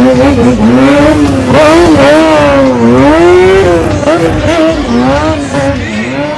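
Loud stunt motorcycle with a high, wavering tone that swells up and down in pitch about once a second.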